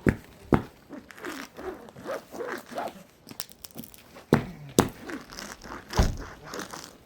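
Footsteps crunching and scraping on ice-crusted ground: irregular sharp crunches, several of them louder, with rasping scuffs in between.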